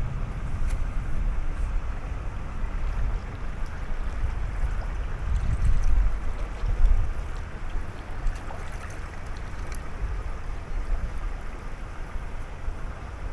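Wind buffeting the microphone in uneven gusts, over a steady rush of river water.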